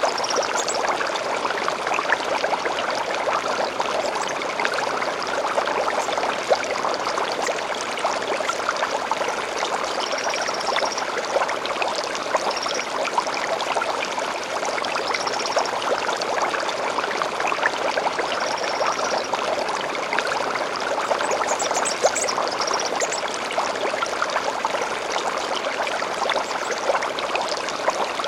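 Steady flowing, trickling stream, with short high bird calls chirping over it now and then: a few near the start, several between about 10 and 19 seconds in, and a cluster about 22 seconds in.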